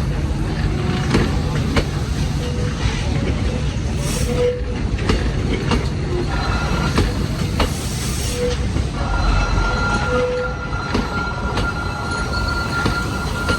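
Passenger train rolling past at low speed as it pulls out of the station: a continuous rumble of the carriages with repeated sharp clicks from the wheels over rail joints. About two-thirds of the way through, a steady high wheel squeal sets in and holds.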